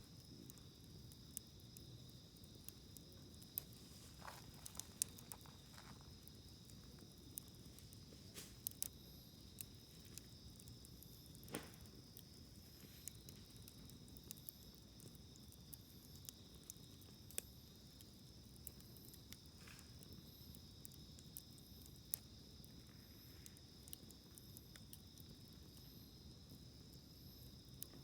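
Campfire wood crackling faintly, with scattered sharp pops at irregular intervals, over a steady high-pitched trill of crickets.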